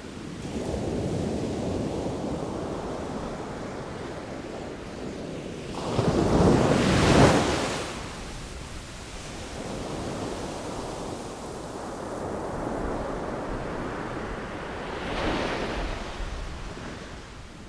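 Ocean waves breaking and washing in, one loud crash about six to seven seconds in and a smaller one near the end, with wind noise on the microphone.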